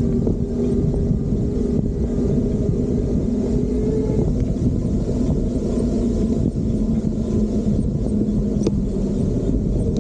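Wind rumble on the microphone from riding an electric bike, with a steady low hum running underneath.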